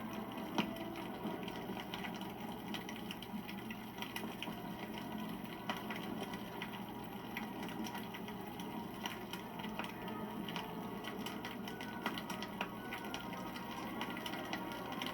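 Wood campfire burning, crackling with many irregular sharp pops over the steady hiss of the flames; a few louder pops stand out.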